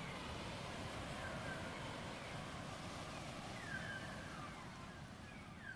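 Faint ocean sound: a steady wash of surf and wind with short, repeated falling cries over it.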